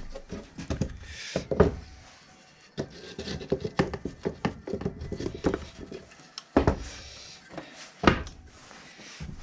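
Irregular knocks, clunks and rubbing of hard parts being handled and fitted together on a workbench, with two louder knocks a little past the middle.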